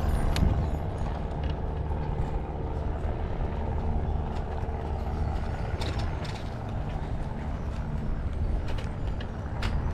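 Road traffic: a steady low engine rumble, with a few light clicks scattered through it.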